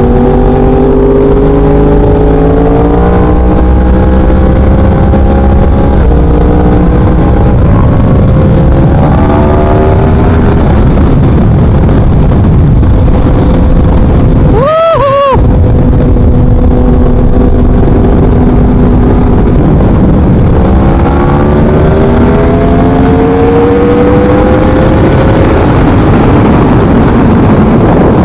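2017 Yamaha R1's crossplane inline-four with a Leo Vince 3/4 exhaust, under way: the revs climb and drop again and again as it pulls through the gears, with a quick rev blip about halfway through. A heavy wind rush sits under the engine.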